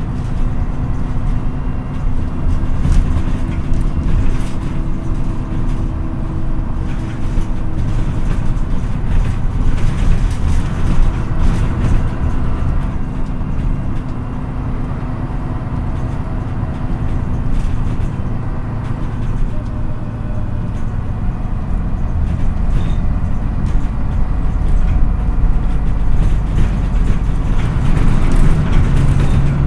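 MAN NÜ 313 bus's diesel engine running while the bus is under way, heard from inside the bus, with scattered clicks and rattles. The engine note dips about halfway through and grows louder near the end.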